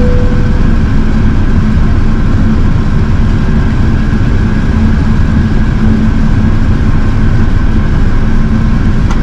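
Steady, loud Airbus A380 cabin noise: engine and airflow rumble heard from inside the passenger cabin, with a constant low hum.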